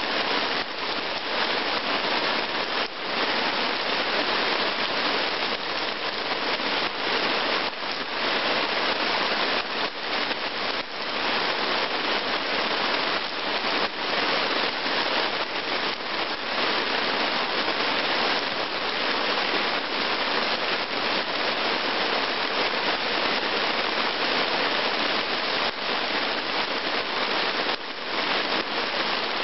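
Heavy rain falling steadily onto a forest clearing, splashing into standing puddles on the ground.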